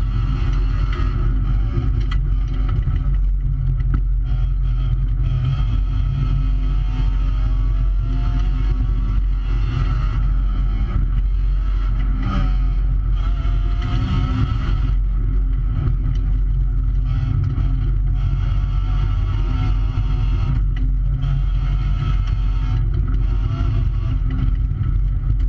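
Rally car engine at full effort, heard from inside the cabin, its revs rising and falling as it drives the stage, with road noise and a few knocks from the body.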